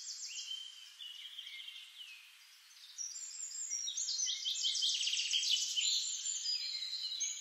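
Several birds singing, high chirps and whistled phrases overlapping. The song thins to a lull about two seconds in, then returns fuller, with a rapid trill near the middle.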